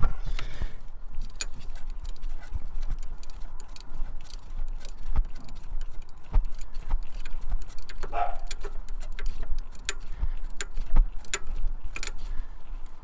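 Scattered metallic clicks and knocks from hand tools working the steering box mounting bolts, coming irregularly about one or two a second, over a steady low rumble.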